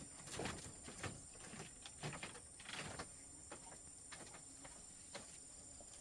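Scattered light clicks and knocks, thickest in the first three seconds and sparser after, over a faint steady hiss.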